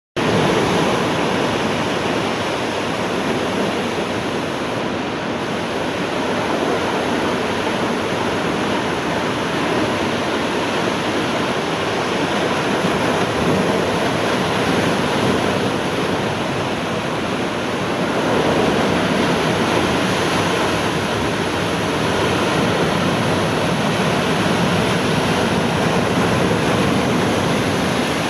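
Heavy ocean surf breaking and rushing without pause, with slight surges in loudness. It is the large swell thrown ahead of an approaching typhoon.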